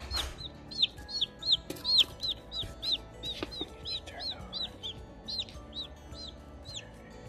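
Newly hatched chick peeping loudly and insistently: a quick string of high, arched peeps, about three a second, that stops near the end. A brief rustle comes right at the start.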